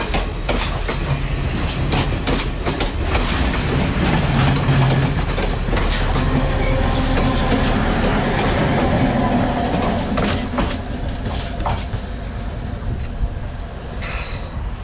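Diesel train running past, its wheels clicking over the rail joints in a long run of knocks over a steady low engine hum; the noise eases a little near the end.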